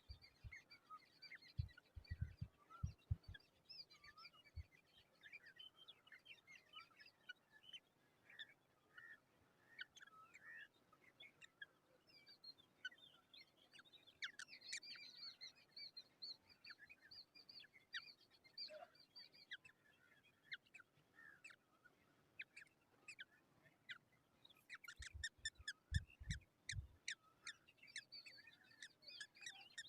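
Black drongo chicks giving faint, quick chirps and squeaky calls, thickening into a rapid run of calls near the end, with a few low thumps near the start and again near the end.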